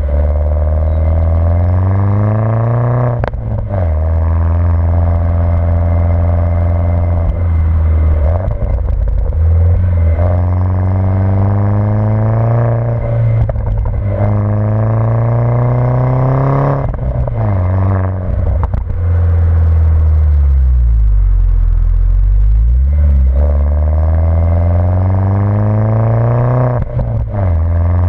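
Mini Cooper S with a modified exhaust under way: the engine note climbs steadily in pitch, drops back at each gear change every few seconds, and climbs again.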